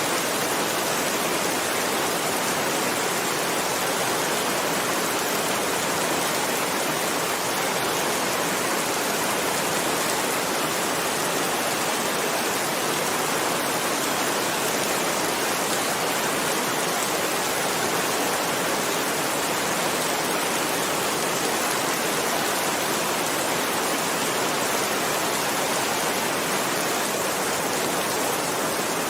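Heavy rain falling steadily: a dense, even hiss with no single drops standing out and no thunder.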